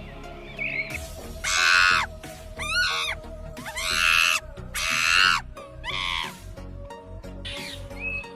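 An animal calling loudly about five times in a row, each call lasting roughly half a second and bending in pitch, over faint background music.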